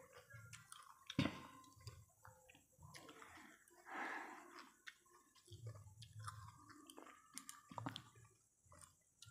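Faint, irregular chewing of a mouthful of raw pointed gourd (potol), with a short sharp click about a second in.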